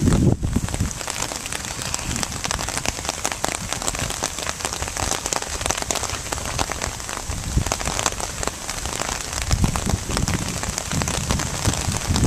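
Rain falling steadily, a dense patter of drops hitting close to the microphone. There is a low rumble at the very start and again from about ten seconds in.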